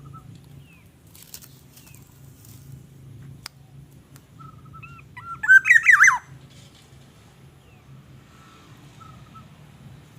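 A short burst of squeaky, rapidly warbling bird calls about five to six seconds in, the loudest sound here, over faint scattered chirps and a low steady hum. There is one sharp click a little before the calls.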